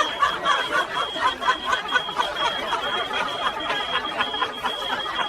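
People laughing hard, a run of quick, breathy giggles and chuckles, with a steady high-pitched tone underneath.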